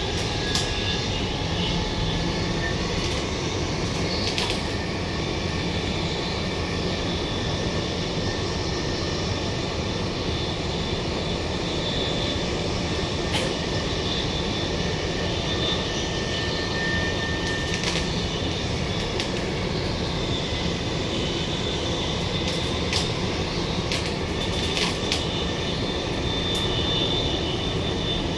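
Interior running noise of a Queensland Rail New Generation Rollingstock (Bombardier) electric multiple unit travelling at speed between stations: a steady rumble of wheels on track with a faint high whine over it. Occasional sharp clicks and rattles come through now and then.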